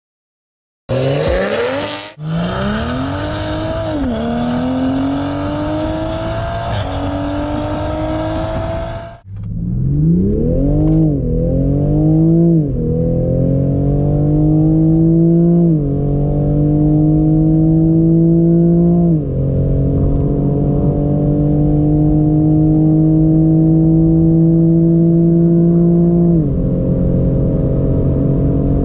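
Toyota GR Supra's 3.0-litre twin-turbo inline-six accelerating hard through its automatic gearbox, heard from inside the cabin. The engine note climbs steadily in pitch and drops at each upshift, with the shifts coming further apart as speed builds. There is a short break about nine seconds in.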